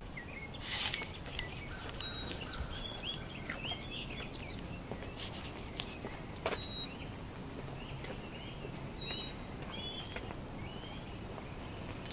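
Several songbirds chirping and calling, including quick runs of five or six repeated high notes. A few short knocks are mixed in.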